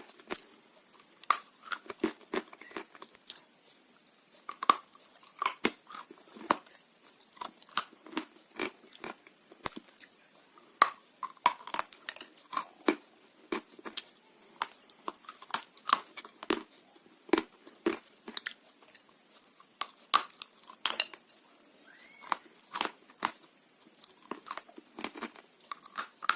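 Someone chewing edible blue Uzbek clay, a dense, irregular run of sharp crunches and crackles as pieces are bitten and ground between the teeth.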